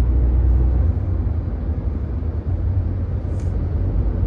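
Cabin noise of a Volkswagen Polo 1.0 TSI hatchback on the move: a steady low engine and road rumble. About a second in, the rumble eases a little and shifts slightly higher in pitch.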